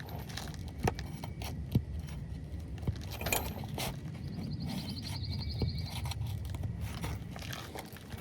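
A sealed asphalt shingle being pried up to unseal it: a pry tool scrapes under the tab with scattered sharp clicks and crackling as the sealant strip breaks loose.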